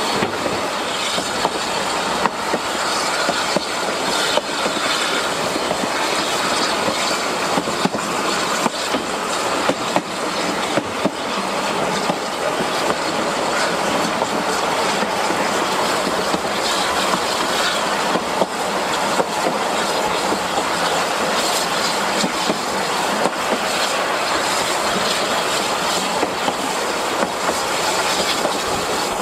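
Narrow-gauge steam train's carriages rolling along the track, a steady noise of running broken by irregular sharp clicks of the wheels over the rail joints.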